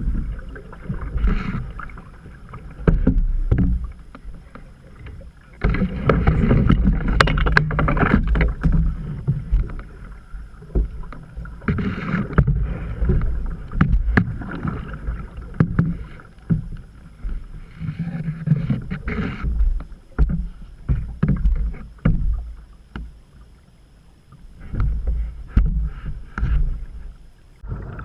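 Canoe being paddled on a creek: irregular paddle strokes splashing in the water, and frequent sharp knocks against the hull. A low rumble runs under it all on the camera's microphone.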